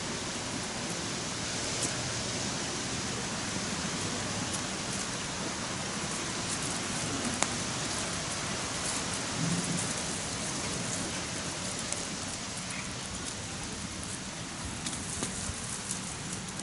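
Campfire burning: a steady hiss with scattered sharp crackles and pops.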